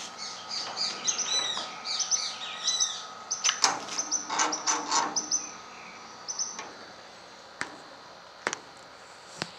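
Small birds chirping: a quick run of short, high chirps with a few louder calls near the middle, dying away after about six seconds. A few sharp clicks follow near the end.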